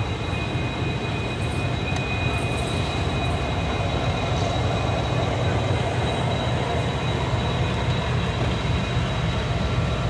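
Passenger train pulling out of a station, heard from aboard a coach: a steady low rumble of the wheels on the track, with a thin steady high whine above it.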